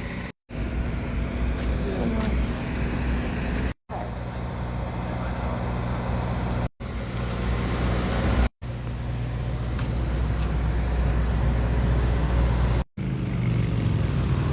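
Steady low engine drone with a hum of road or outdoor noise. It drops out abruptly several times, cut short by edits.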